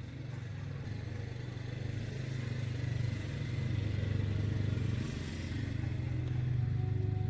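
A motor running steadily with a low hum that grows slightly louder.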